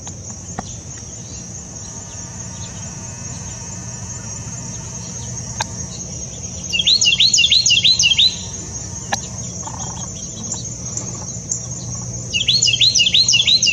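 Carolina wren singing: two loud bursts of quickly repeated rolling notes, a few seconds apart, the first about midway through and the second near the end. Under them runs a steady high insect chorus of crickets.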